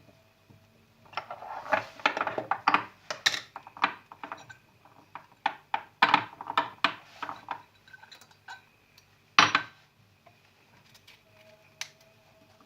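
Dishes and cutlery clinking and clattering in a run of quick knocks, with one louder knock about nine seconds in.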